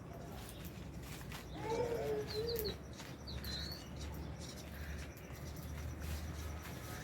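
Aviary lovebirds and budgies chirping: a few short high chirps, with one lower, drawn-out call about two seconds in, over a steady low hum.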